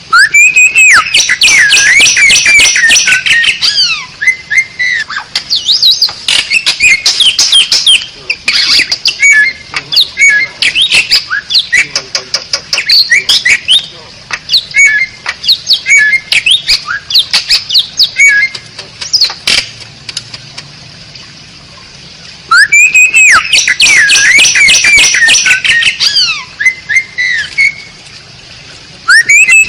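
Asian pied starling (jalak suren) singing loudly, a varied song of whistled glides mixed with rapid clicking rattles. A dense burst opens it and another comes about 22 seconds in, with scattered notes between.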